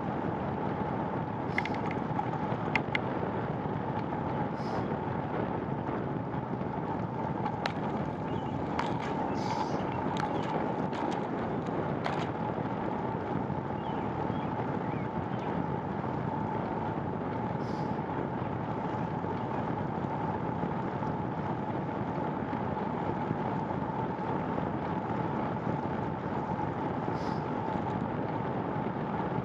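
Bicycle being ridden on a rainy road: steady tyre and wind noise with a constant hum, and a few faint clicks now and then.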